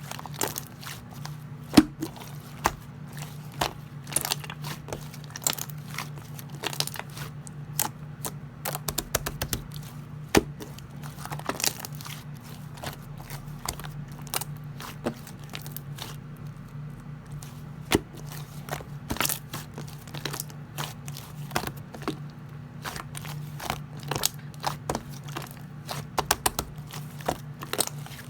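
Slime being pressed, poked and stretched by hand, giving frequent irregular crackling clicks and pops. A steady low hum runs underneath.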